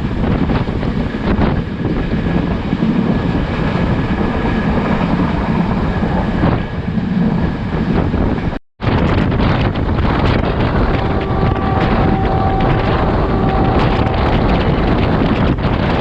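Class S13 diesel multiple unit train running, a steady low rumble with heavy wind buffeting the microphone. The sound drops out completely for a split second a little past halfway, and faint thin whining tones sound briefly near the end.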